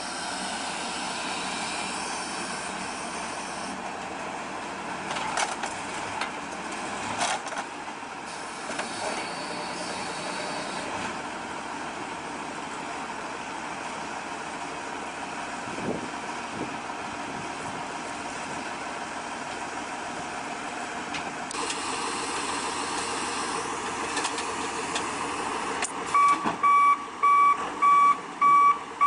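Diesel machinery running steadily while crushed cars are loaded, with a few sharp metal knocks. About 26 seconds in, a reversing alarm starts beeping at an even pace, louder than everything else.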